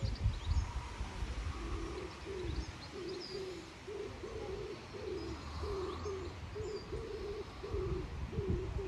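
A pigeon cooing in a steady run of soft, low notes, about two a second, with faint chirps from small birds and a low rumble underneath.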